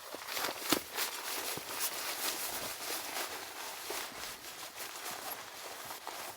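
Footsteps in snow: a run of irregular crunches, with one sharper click near the start.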